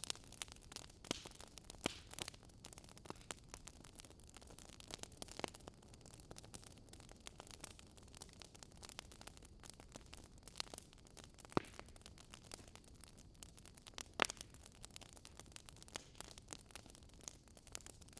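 Faint crackling of a burning wood fire: irregular small snaps and pops over a soft hiss, with a few louder pops, the sharpest about fourteen seconds in.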